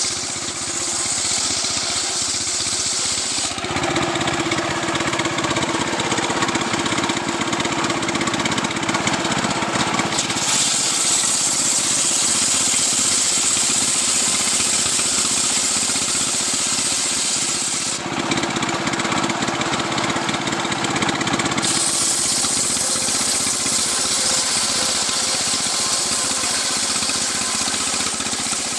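Stihl chainsaw running hard while cutting coconut palm trunk. Its sound changes abruptly several times.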